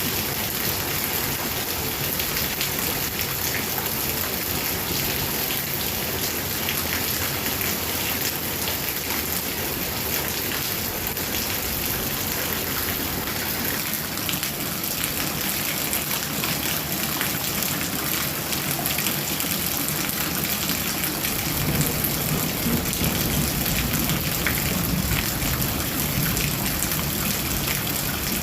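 Heavy rain falling steadily, a dense hiss of drops on surfaces. A low hum joins in near the end.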